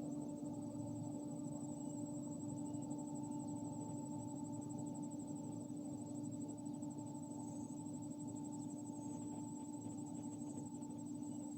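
A steady low hum with a constant high, thin trill above it.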